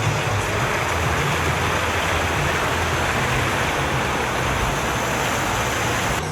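Steady rush of running water at a waterpark, a continuous even hiss without breaks.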